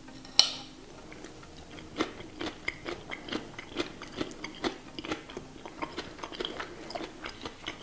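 Crunchy chewing of a mouthful of fresh radish and cucumber salad: a sharp click about half a second in, then irregular crunching chews, a few a second.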